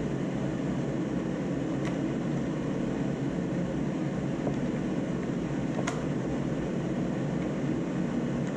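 Steady low rushing background noise, like a running fan, with two faint clicks of small parts being handled about two and six seconds in.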